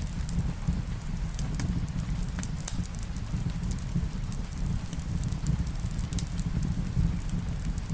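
Wood fire in a fireplace burning steadily, with a low rumble of the flames and scattered sharp crackles and pops from the logs.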